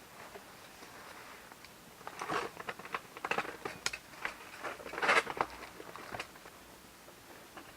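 A run of crunches and sharp clicks, bunched between about two and six seconds in, loudest around five seconds.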